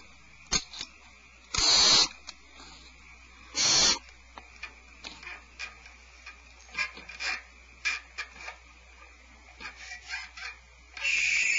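Barn owl nestlings hissing in the nest box: two short loud hisses early on, then a longer one starting near the end, with small scratching and clicking sounds of the birds moving on the cavity floor in between.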